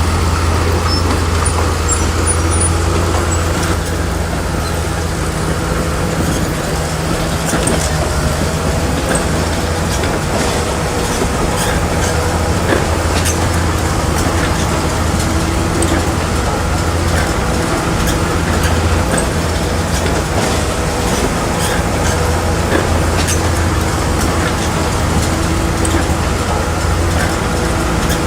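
Bulldozer diesel engine running steadily under work, a constant low drone with a few scattered faint clanks.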